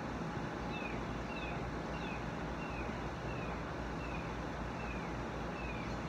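A bird repeating a short, clear, downward-slurred whistle about one and a half times a second, over a steady low outdoor rumble and hiss.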